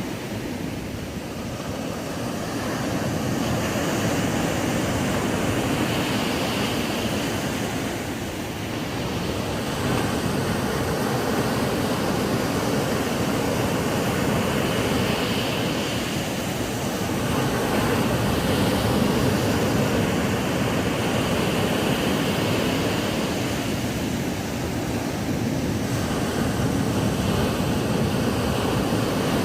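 Ocean waves breaking on a sandy beach: a continuous rushing wash of surf that swells and eases every several seconds.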